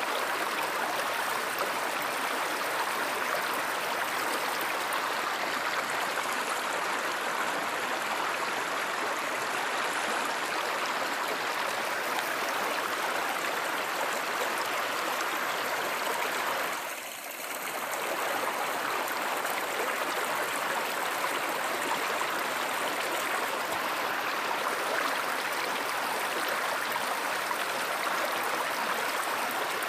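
Stream water flowing steadily, with a brief dip in loudness about two-thirds of the way through.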